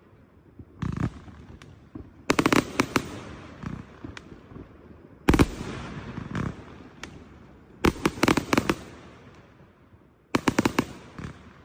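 Backyard consumer aerial fireworks bursting: clusters of several sharp bangs about every two to three seconds, with a heavier, deeper boom about five seconds in, each cluster trailing off in a fading haze.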